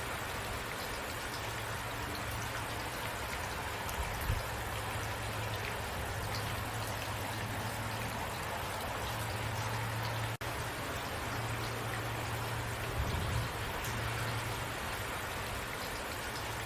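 Steady rain falling, an even hiss of many drops, with a low rumble underneath that comes and goes. The sound briefly drops out about ten seconds in.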